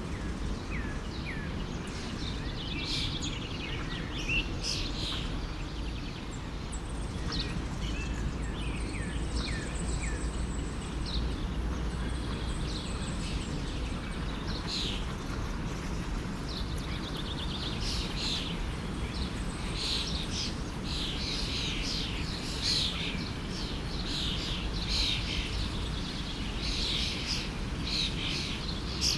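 Several songbirds chirping and trilling, with the calls coming thicker in the second half, over the steady rush of a forest stream.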